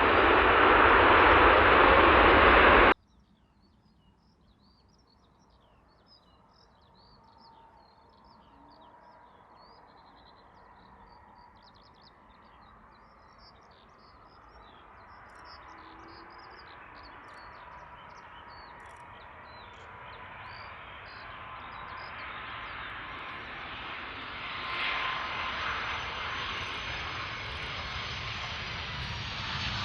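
A loud jet airliner that cuts off suddenly about three seconds in. Then birds chirp while the next big jet airliner approaches to land, its engines steadily growing louder with a steady whine.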